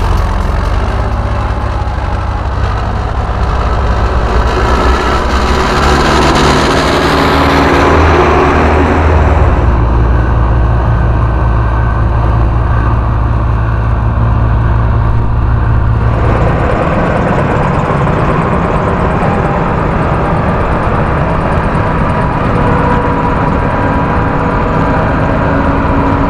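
Farm harvest machinery engines running steadily with a loud low drone. The sound swells a few seconds in and changes abruptly about two-thirds of the way through.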